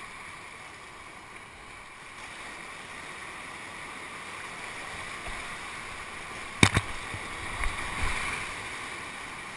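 Steady rush of river whitewater, with a sharp knock about two-thirds of the way through and a couple of softer knocks just after.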